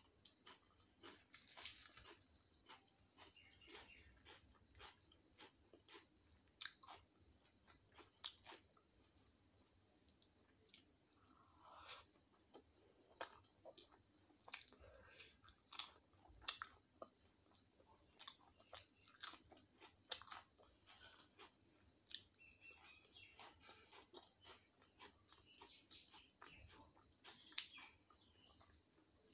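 Quiet, close-up eating: chewing chole and puri with sliced raw onion, with soft crunches and wet mouth clicks at irregular moments.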